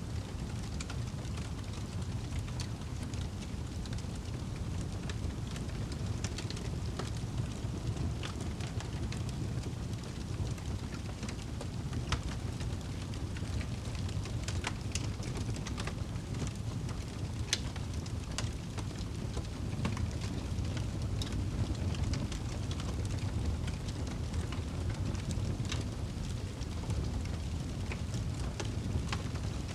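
Wood fire crackling in a fireplace: a steady low rumble of burning with scattered sharp pops and snaps.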